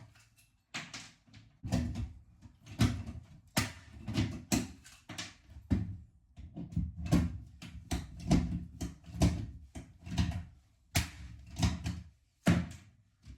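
Irregular knocks and thumps of flooring planks being fitted and pressed into place, about one or two a second with a few short pauses.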